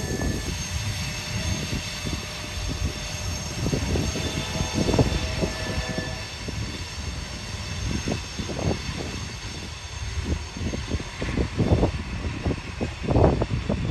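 Freight train cars rolling past: a steady rumble of steel wheels on rail with irregular clanks and knocks from the wheels and cars, which come thicker in the second half.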